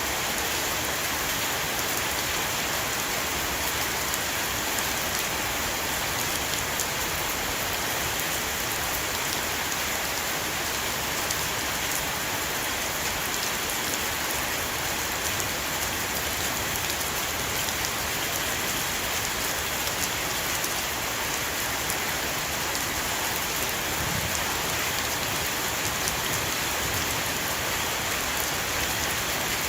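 Heavy rain pouring onto a roof, a steady dense hiss with fine drop patter.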